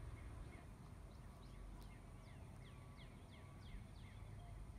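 Faint bird song: a run of quick, falling chirps, about four a second, through the middle, over a low rumble.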